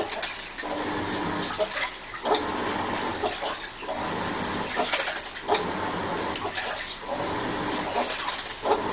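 Washing machine running through its wash cycle, with water sloshing. It makes an odd, repeating noise that rises and breaks off every second or two, with clicks between the strokes.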